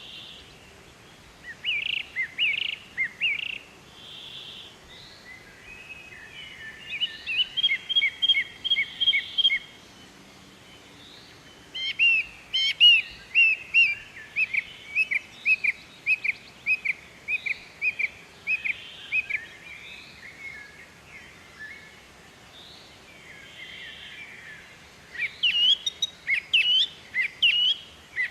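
Songbird singing: phrases of quick, high, repeated chirps separated by short pauses, with one long fast run of chirps in the middle.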